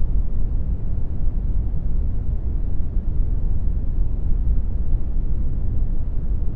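Steady synthetic brown noise: a deep, even rumble-like hiss heavy in the low end and falling away toward the treble, with no change.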